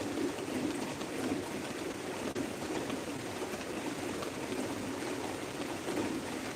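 Heavy rain falling steadily, an even, unbroken rush of water.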